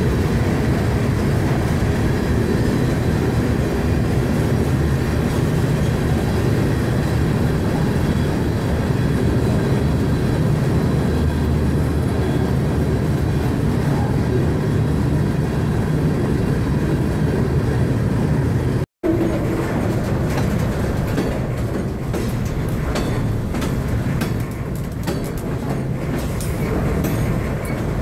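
Freight train rolling, heard from aboard one of its cars: a steady loud rumble of wheels and rail. After a brief cut-out about two-thirds of the way through, the rumble carries on with sharper clanks and knocks.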